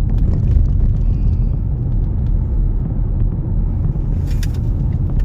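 Steady low road and engine rumble inside a moving car's cabin, with a short hiss about four seconds in.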